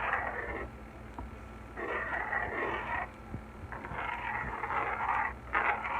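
A utensil stirring and scraping in a small frying pan, mixing flour into a Marsala wine and bouillon liquid to thicken it into a gravy. It goes in scraping strokes of about a second each, with short pauses between.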